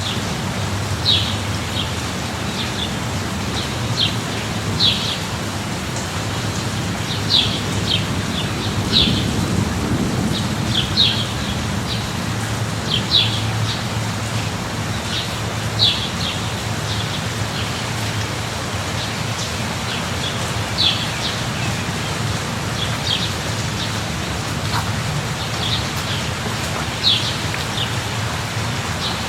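Light rain falling steadily, with a bird chirping in short repeated calls every second or two and a low steady rumble underneath.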